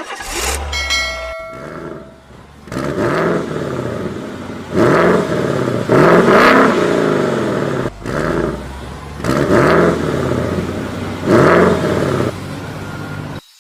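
A tractor-like engine sound revving up and down in repeated swells, about six times, each rising and falling in pitch. A short ringing chime comes near the start.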